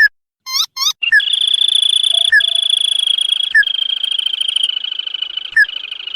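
Crake lure call: two short rising notes, then a rapid continuous trill from about a second in, with a short sharp note repeating about every second and a quarter over it.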